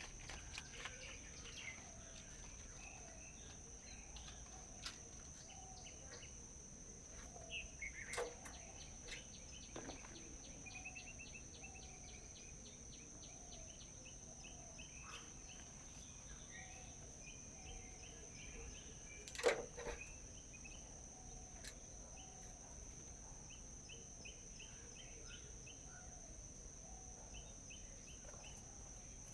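Several small birds chirping and trilling in short repeated calls, some of them rapid ticking trills, over a steady high-pitched drone. Two sharp sudden sounds stand out, one about a quarter of the way in and a louder one about two-thirds of the way in.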